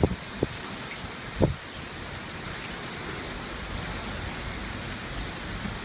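Typhoon wind and rain making a steady rushing hiss, with a few low thumps from gusts buffeting the microphone in the first second and a half.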